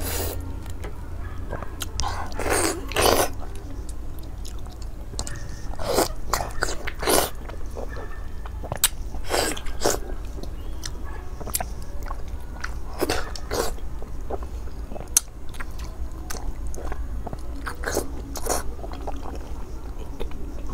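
A person chewing and biting into cooked seafood close to the microphone: irregular short bites and mouth sounds, about one every second or two, over a steady low hum.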